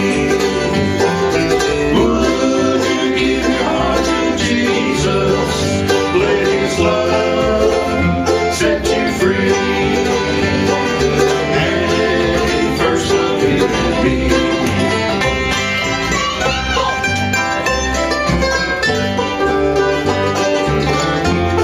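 Bluegrass gospel band playing live, plucked strings over a steady bass line.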